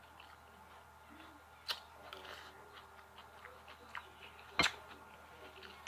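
Quiet eating sounds during a close-miked meal: a few sharp clicks and soft crackles, the loudest click about four and a half seconds in.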